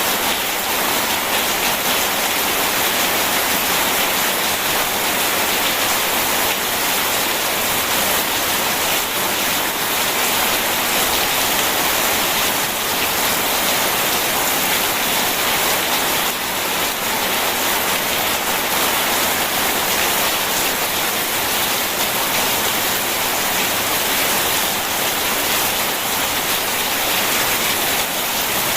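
Steady rain together with rushing river water: an even, unbroken hiss.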